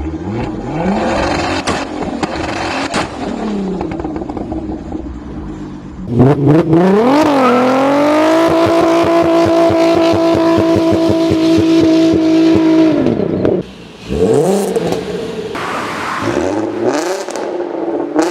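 Volkswagen Golf 4 R32's 3.2-litre VR6 revving through its exhaust. A few short blips of the throttle, then about six seconds in a loud climb to high revs held steady for about five seconds. It drops off sharply, followed by more quick blips.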